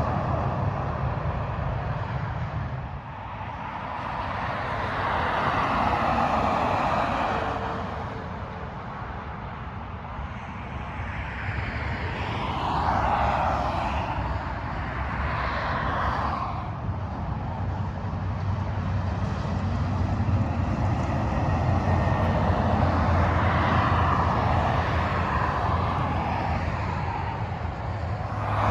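Freeway traffic passing at speed: tyre and engine noise swells and fades as vehicles go by one after another, three or four passes in all. A steady low engine hum builds near the end.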